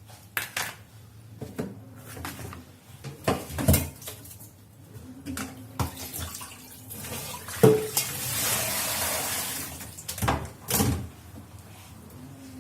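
Kitchen sink work: scattered knocks and clatters of bowls and dishes being handled, then tap water running for about two seconds, followed by two more knocks.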